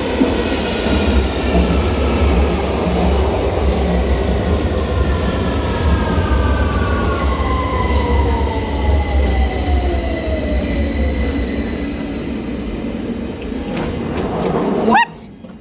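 Electric train coming into the platform: a steady rumble with a whine that falls slowly in pitch as it slows, and high wheel squeal over the last few seconds before the sound drops away abruptly.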